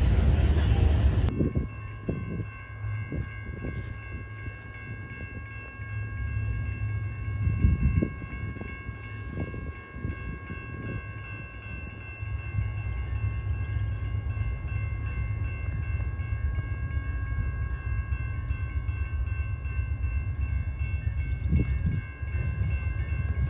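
A railroad train or locomotive: a low rumble with occasional thumps, and a steady high-pitched whine over it. A loud rushing noise stops abruptly about a second in.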